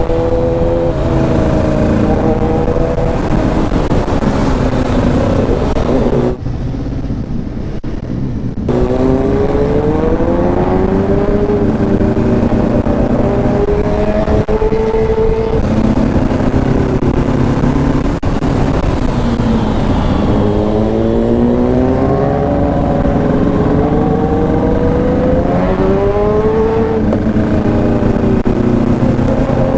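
Motorcycle engine accelerating through the gears: its pitch climbs, drops at each shift, then climbs again, over and over. Briefly duller and quieter about six seconds in.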